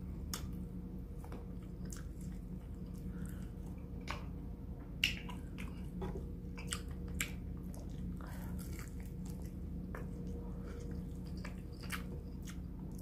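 A person biting and chewing fried chicken wings close to the microphone, with scattered short crunches and wet clicks. A steady low hum runs underneath.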